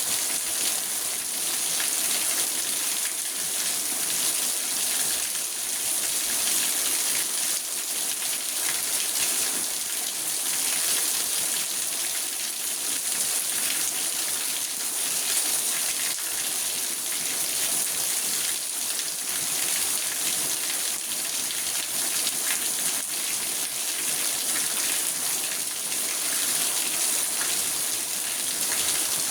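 Steady rain falling on a car's roof and windows, heard from inside the car as an even hiss with fine patter of drops.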